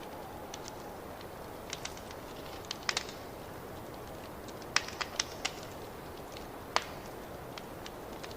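Wood fire crackling in a fireplace: a steady low rush of burning with scattered sharp pops, bunched in quick clusters about three and five seconds in and a single loud pop near the end.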